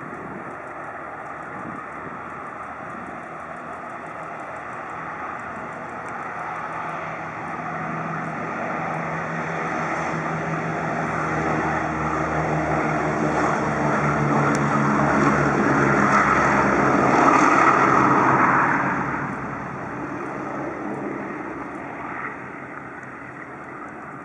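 Piston propeller aircraft engine running, growing steadily louder as the plane approaches, then falling away sharply about nineteen seconds in as it passes.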